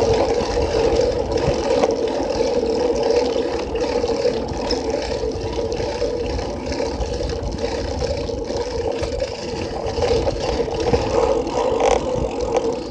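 Riding noise picked up by a phone zip-tied to a moving bicycle: a steady rush of wind and road rumble with a constant hum and small rattles.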